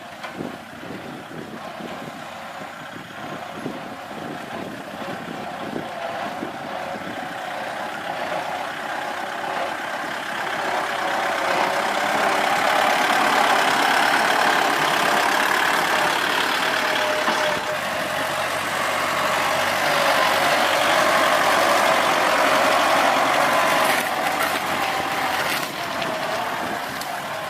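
Kubota L4708 tractor's diesel engine running under load while pulling a ridging plough. It grows louder over the first dozen seconds, then holds steady and loud, easing briefly near the end.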